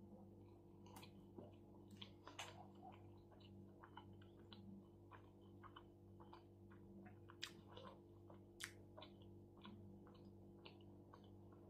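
Faint close-up chewing of a mouthful of shawarma: irregular wet mouth clicks and smacks, a few sharper ones standing out, over a steady low hum.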